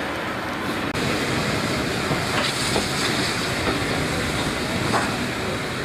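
A train running along the line: a steady rumbling rush of noise with sharp clicks from the wheels over the rails about every second and a bit. The sound breaks off for an instant about a second in.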